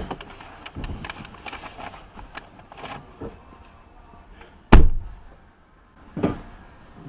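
Car door shutting with a loud thump about five seconds in, after a run of small clicks and knocks; a second, lighter knock follows about a second and a half later.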